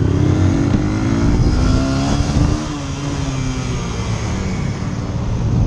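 Motorcycle engine running under way with heavy wind rumble on the microphone; the engine note climbs a little, then eases off and drops in level about halfway through.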